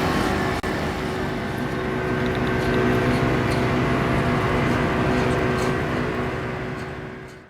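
River boat's engine running steadily: a steady hum over a low rumble. It fades near the end, then cuts off.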